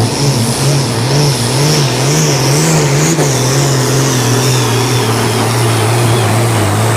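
Super Sport class pulling tractor's engine running hard at high revs, its pitch rising and falling about one and a half times a second, then holding steady from about halfway.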